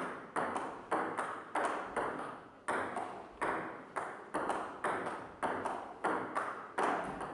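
Table tennis rally: the ball clicking off paddles and table about twice a second, each hit trailing off briefly in the room.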